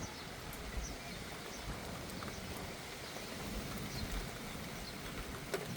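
Steady rain falling, with scattered drops tapping close by and a low rumble of wind on the microphone.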